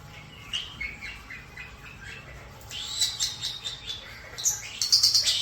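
Pet European starlings and a cockatiel calling in a busy mix of short chirps, whistles and quick clicking runs, growing denser and louder in the second half.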